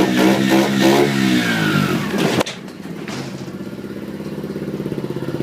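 A 90cc Baja dirt bike engine revving up and down, then dropping suddenly about two and a half seconds in to a steady, pulsing idle.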